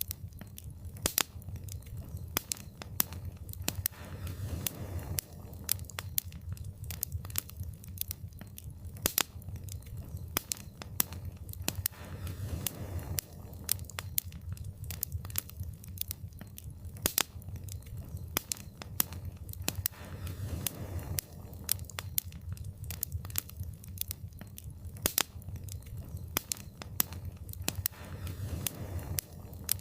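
Wood fire crackling in a fireplace: frequent sharp pops and snaps over a low steady rumble of the flames. A soft rushing swell comes about every eight seconds.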